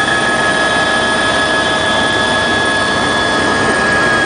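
Helicopter turbine and rotors running steadily, a dense rush of noise with a steady high whine over it.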